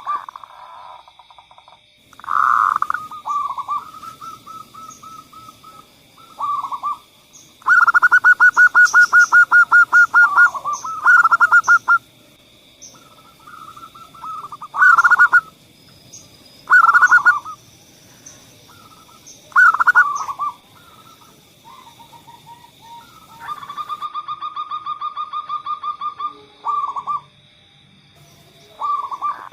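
Zebra doves (perkutut) cooing: short bursts of soft notes alternate with long, fast, rattling trills of staccato coos, the loudest about eight seconds in. A steady high whine and faint small-bird chirps run underneath.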